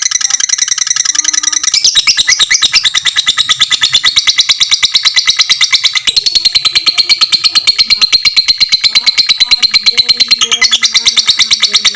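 Fighter lovebird's long ngekek: a rapid, unbroken chatter of shrill chirps at an even, fast pace.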